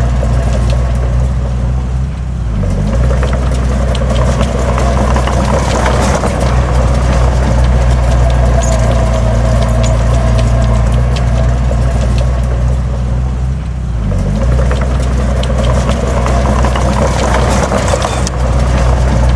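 Heavy diesel engine of an earthmoving machine running steadily. Its pitch dips briefly twice, about two seconds in and again near fourteen seconds, over a constant light rattling and clicking.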